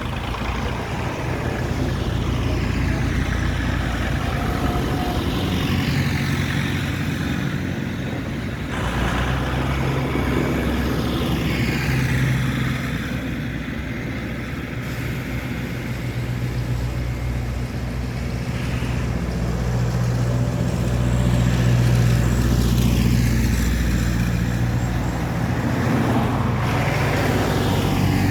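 Tractors and other vehicles driving past one after another, their engines running steadily, with several separate passes whose pitch falls as each goes by.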